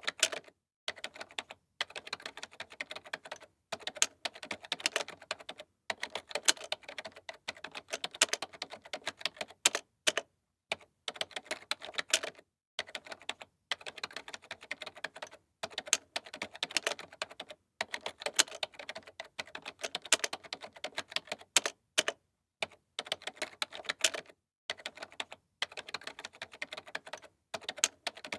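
Computer keyboard being typed on, fast runs of key clicks broken by short pauses.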